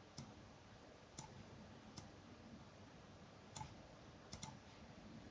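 Near silence with about half a dozen faint, scattered clicks from computer use, spaced irregularly, including a quick double click a little past four seconds in.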